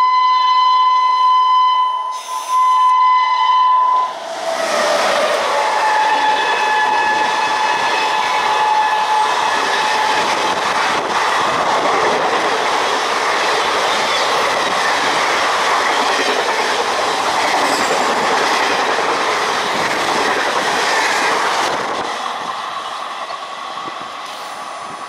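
WAP-7 electric locomotive sounding its horn as it approaches at speed, the blast broken briefly about two seconds in. About four seconds in the horn stops and the rush and clickety-clack of the Duronto Express's ICF coaches passing at high speed takes over, fading near the end.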